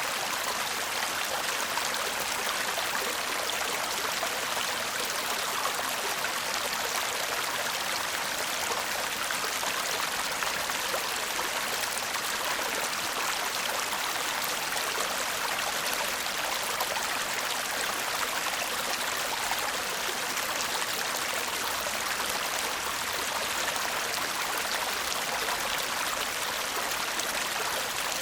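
A shallow stream babbling over stones: a steady, even rush of water with small trickles and splashes all through.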